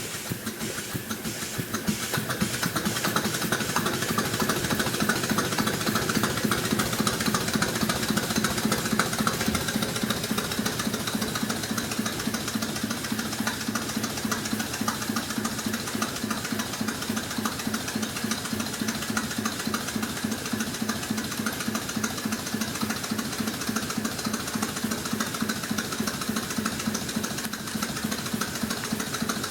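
Small GVG two-cylinder, half-horsepower steam engine running on about 50 psi of boiler steam, with a rapid, even beat of strokes. It speeds up and grows louder over the first few seconds, then runs steadily.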